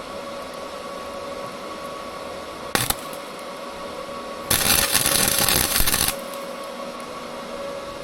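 Electric welder arc crackling: a brief tack about three seconds in, then a weld bead of about a second and a half of loud, even crackle. A steady hum runs underneath.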